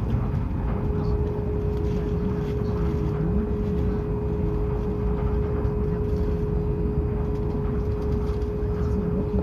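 Interior noise of a Hokuriku Shinkansen train: a steady low rumble, with a constant high hum that sets in right at the start and holds.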